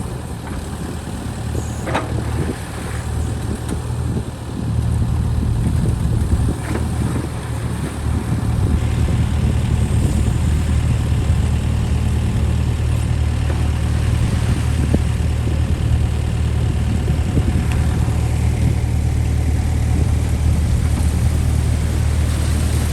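John Deere 60G mini excavator's diesel engine running steadily, with a few knocks in the first seconds. The sound grows louder and fuller from about eight seconds in.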